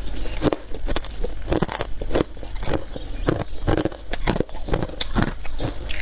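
Close-miked chewing of freezer frost and ice: a regular run of crisp crunches, about two a second.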